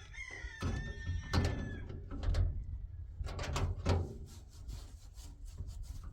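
Several dull knocks and thuds, about five in the first four seconds, with a short high-pitched call near the start.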